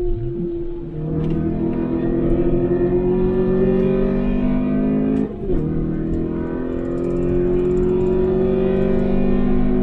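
Daihatsu Applause's four-cylinder engine pulling hard under acceleration, heard from inside the cabin over tyre and road rumble. Its note climbs slowly, breaks briefly about five seconds in, then climbs again.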